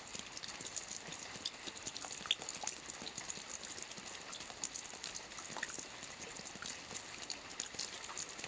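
Rain falling steadily: a constant hiss with many scattered drops ticking on a hard surface at irregular intervals.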